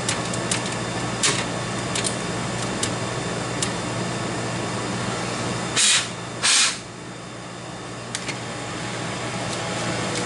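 Steady electrical hum and fan noise from a slot machine cabinet, with scattered light clicks during the first few seconds. About six seconds in there are two short, loud, noisy bursts close together, after which the hum is a little quieter.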